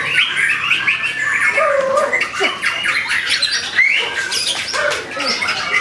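White-rumped shama (murai batu) singing a fast, unbroken song of quick whistled glides mixed with harsh chatters and clicks.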